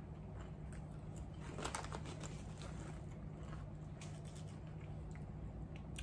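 Faint crunching of ridged Ruffles potato chips being chewed: a few soft, scattered crunches, one a little louder about two seconds in, over a steady low hum.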